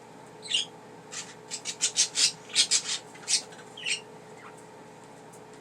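Pet budgerigars chirping in a quick series of short, high calls, which stop about four seconds in.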